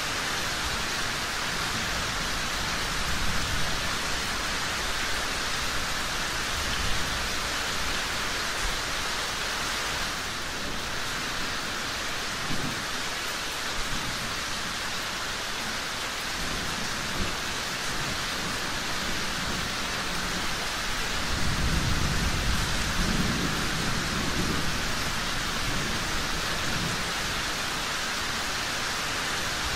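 Steady rain with low rolls of thunder underneath; the longest and loudest rumble comes about three-quarters of the way through.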